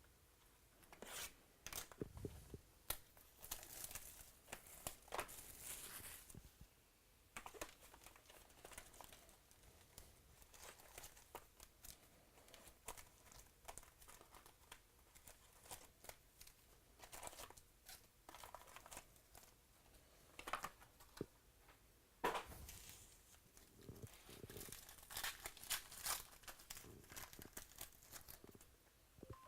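Faint, intermittent rustling and crinkling of trading cards and foil pack wrappers being handled and torn open, with a few sharper clicks.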